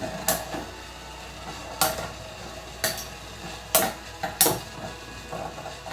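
Two metal Beyblade tops, Gravity Destroyer and Meteo L-Drago Rush, spinning and scraping round a plastic Tornado Stadium. About five sharp metallic clashes ring out as they collide at irregular intervals.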